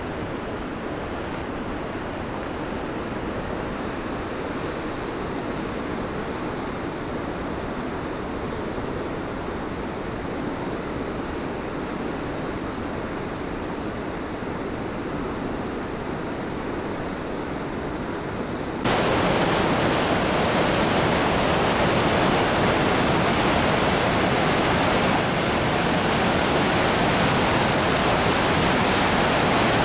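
Goðafoss waterfall: a steady rush of falling water. A little under two-thirds of the way through it jumps abruptly to a louder, brighter rush.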